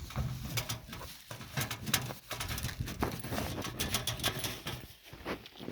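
Hands handling the camping stove and its packing as its contents are taken out: a string of irregular knocks, clicks and rustles.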